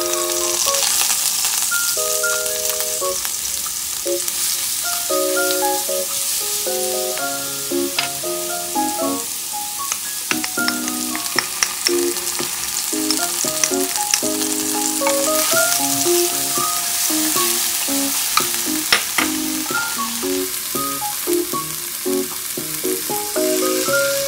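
Chopped garlic, and later chopped green onion, sizzling in hot oil in a nonstick wok. The sizzle starts suddenly as the garlic hits the oil, and there are a few sharp clicks as it is stirred. Light background music with short, evenly struck notes plays underneath.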